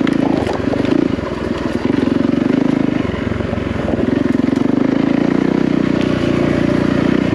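Yamaha WR450F single-cylinder four-stroke dirt bike engine running under load as it is ridden, its note dipping about a second in and picking up again about three seconds in.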